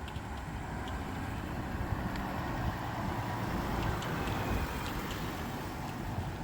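Motor vehicle running on the road: steady engine rumble and tyre noise that swells about halfway through, as a vehicle passes or draws near.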